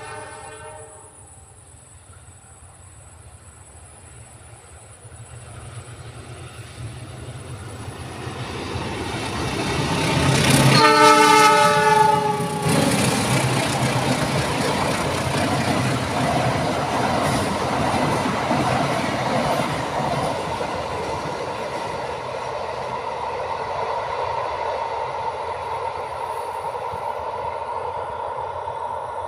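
A PT KAI train approaches and passes. A short, faint horn sounds at the start, and the rumble builds until a loud horn blast of about two seconds, roughly eleven seconds in. The steady rolling noise of the train on the rails then carries on.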